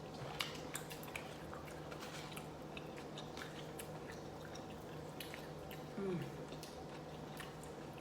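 Close-up chewing and small wet mouth clicks of someone eating a chunk of short rib meat with rice. About six seconds in there is a short falling tone.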